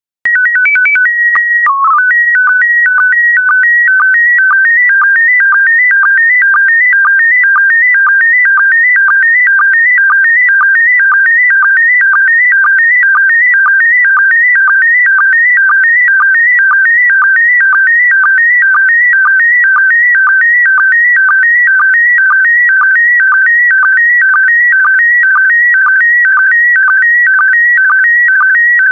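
Slow-scan television (SSTV) signal in PD120 mode. It opens with a short run of stepped beeping header tones, then settles into a steady warbling between two pitches that repeats about twice a second as the image's scan lines are sent.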